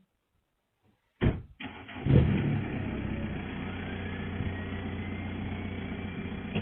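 Motor vehicle engine and road noise that cut in suddenly just over a second in, after near silence, then run on steadily, with a faint rising whine.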